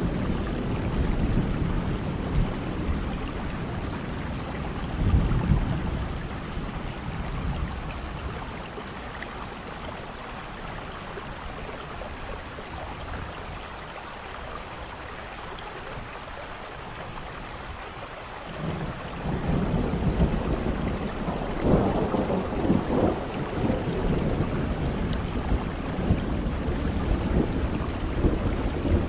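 Steady rain falling with rolling thunder. The low rumble dies down to the rain alone in the middle, then a new roll of thunder builds about nineteen seconds in and peaks a few seconds later.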